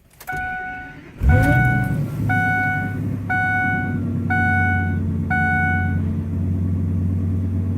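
2004 Ford F250's engine cold-started at about 19 degrees after sitting some 37 hours: a short crank about a second in, catching at once and settling into a steady idle. A dashboard warning chime beeps about once a second, six times, over the first six seconds.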